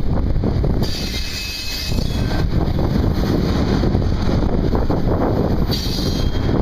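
A freight train rolling by with a steady low rumble, and wind buffeting the microphone. A higher hiss comes in briefly about a second in and again near the end.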